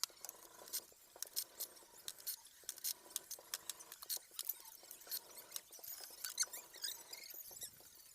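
Light, irregular clicks and clinks of hand tools and small parts being handled during engine disassembly, several a second and uneven in strength.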